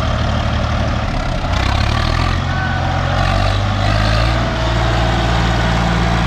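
Diesel engines of two tractors, a Mahindra 585 DI and a Swaraj 855 FE, running at high throttle under heavy load as they pull against each other. The engine note shifts about a second and a half in and again near the middle.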